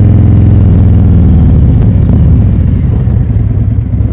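Motorcycle engine running with a steady note that turns uneven and a little quieter about a second and a half in.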